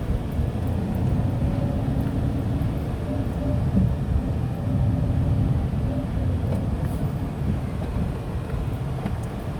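Steady low rumble of a Tata Nano's small two-cylinder engine and its road noise, heard inside the cabin while driving.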